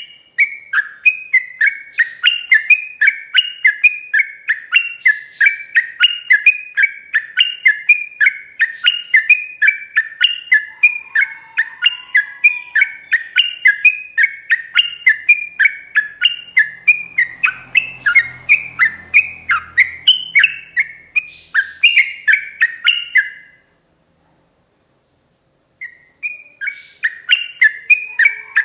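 Yellow-vented bulbul (trucukan) singing a long, unbroken run of loud, rapid bubbling notes at roughly three a second. The song breaks off for about two seconds near the end, then starts again.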